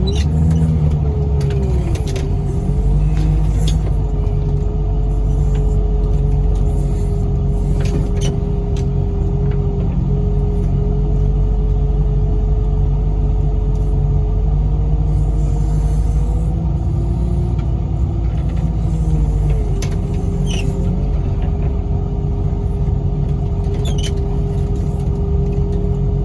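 Loader's diesel engine running steadily, with a steady hydraulic whine that sags under load about two seconds in and again later while it works the forks. A few sharp knocks punctuate it.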